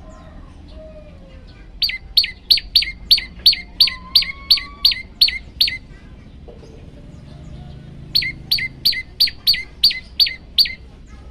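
Prenjak lumut song: two runs of loud, rapid, evenly repeated notes, about three a second, each a sharp downward-slurred chip; the first run of about a dozen notes starts about two seconds in, and the second, shorter run comes after a pause of a couple of seconds. Faint softer chirps sit in between.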